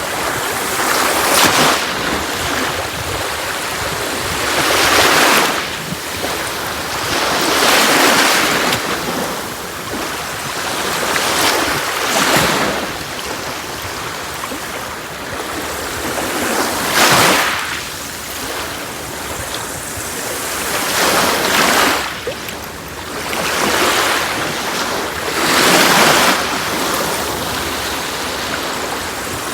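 Sea waves breaking on a beach: a continuous wash of surf that swells into a louder break every three to four seconds.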